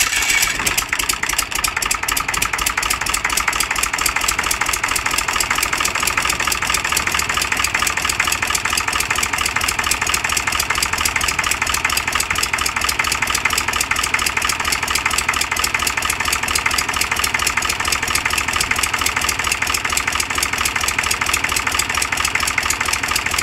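Lister FR3M three-cylinder diesel engine running steadily with a fast, even clatter. The engine is a generally very worn-out example.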